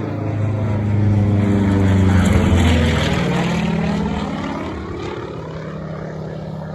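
Propeller-driven light aircraft passing by, its engine growing louder to a peak about two seconds in and then fading away.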